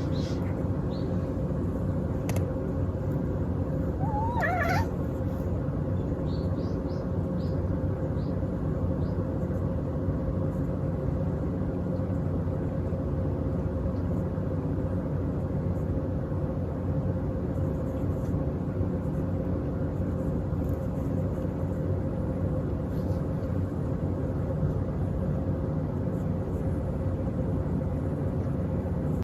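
A steady low mechanical hum runs throughout. About four seconds in, a cat gives one short, wavering, squeaky call, followed by a few faint high chirps.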